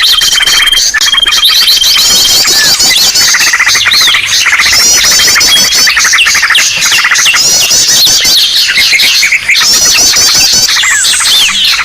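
Bird-lure recording: a loud, dense chorus of many birds chirping, trilling and squawking at once. A long held whistle runs through the first two seconds, and the same quick high chirping phrases keep recurring.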